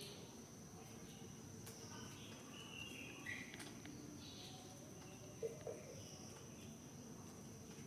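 Quiet outdoor ambience dominated by a steady, high-pitched insect drone, with a few brief chirps about three seconds in and two short soft sounds a little after halfway.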